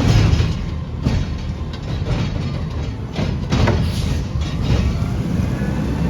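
Recycling garbage truck's diesel engine running with a steady low rumble, broken by several loud metallic clanks and bangs.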